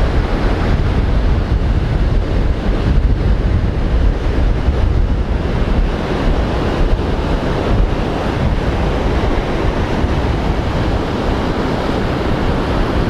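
Strong wind buffeting the microphone with a steady low rumble, over rough surf breaking on the beach.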